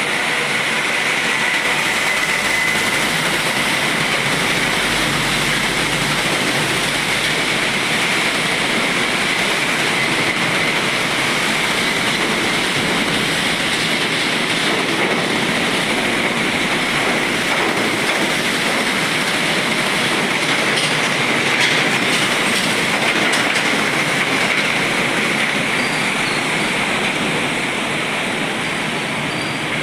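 Steady rolling noise of heavy trucks on a wet road, tyres hissing on the wet surface under engine noise, with a thin high tone running through it.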